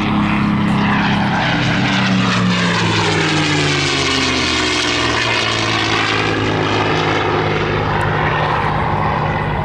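P-51D Mustang's Packard-built V-1650 Merlin V12 engine running at power as the aircraft flies past, its pitch dropping over the first few seconds and then holding steady.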